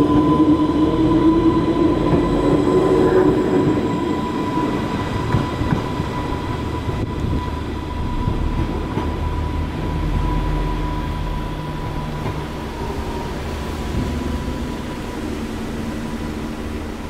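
Island Line Class 484 electric train pulling away and running off down the line. Its motor whine rises in pitch over the first few seconds over a rumble, and a steady high whine holds, then fades out as the train draws away.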